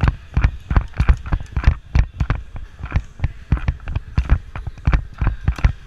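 Running footsteps of a player carrying the camera, about three or four heavy thumps a second.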